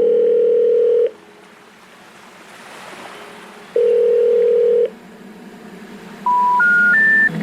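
Telephone line tones: a steady ringback tone sounds for about a second, twice, with a gap of nearly three seconds between. Near the end come three short rising notes, the special information tone that precedes a recorded 'number cannot be reached' message.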